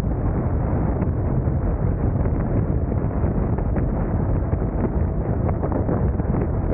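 Wind buffeting a motorcycle-mounted camera's microphone over the motorcycle's engine and road noise while riding. It is a steady, dense rush, heaviest in the low end, with faint irregular knocks.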